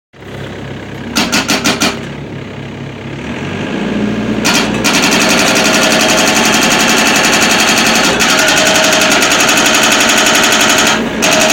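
Excavator-mounted hydraulic breaker hammering, with the excavator's engine running underneath. A short run of rapid blows comes about a second in, then from about four and a half seconds the breaker hammers fast and steadily, stopping for a moment near the end.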